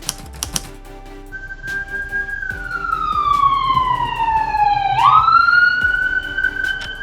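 Siren wailing: one tone slides slowly down in pitch for a few seconds, sweeps quickly back up about five seconds in, then holds high. Faint background music runs underneath.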